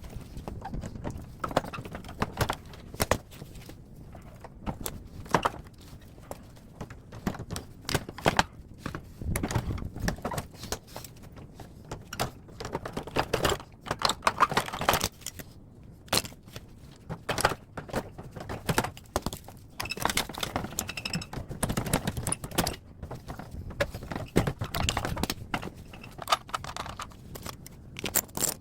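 Irregular metallic clinks, knocks and rattles as a scrapped air conditioner outdoor unit is dismantled by hand, with tools and metal parts being handled.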